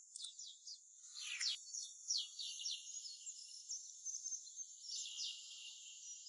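Small birds chirping and singing: a dense, fairly faint run of quick, high, falling notes, with a slightly fuller call about a second in.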